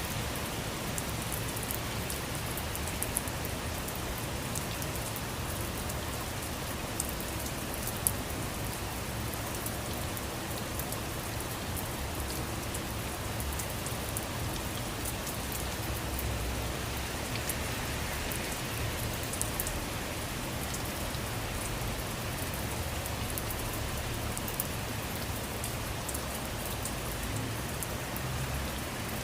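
Steady rainfall pattering on surfaces, with scattered individual drops ticking and a few louder drips standing out.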